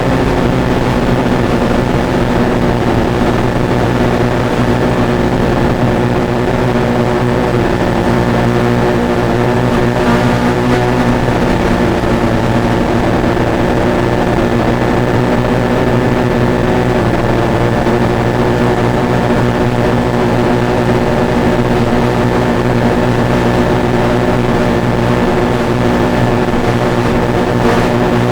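Drone's motors and propellers running in flight, a steady hum of several held tones that stays level throughout.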